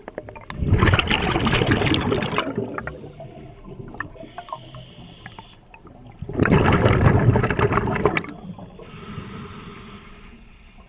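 Scuba diver breathing through a regulator underwater: two loud rushes of exhaled bubbles about six seconds apart, with a quieter hiss of inhaling between them.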